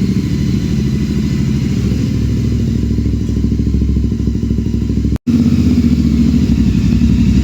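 Motorcycle engine running at a steady idle through a freshly fitted Gursewak Big Shot aftermarket exhaust, loud, with an even low pulse. The sound cuts out for an instant about five seconds in and then carries on slightly louder.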